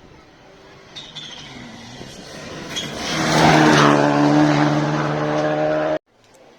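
Rally car engine approaching at high revs, growing louder and holding a loud, steady note, then cutting off abruptly about six seconds in.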